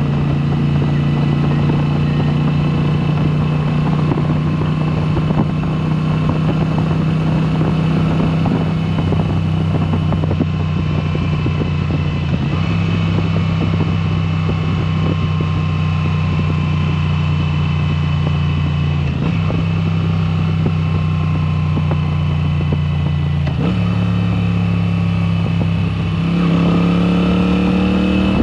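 Moto Guzzi V7 Special's air-cooled V-twin running through a Mistral exhaust with the dB killers removed, held at a steady pace while riding, with a few brief changes in pitch. Near the end the revs climb and the exhaust gets louder as the throttle opens.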